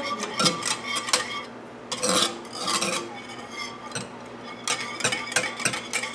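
Pineapple lemonade mixed with Sprite being stirred: a utensil clinks repeatedly and irregularly against the sides of the container, with short swishes of the liquid.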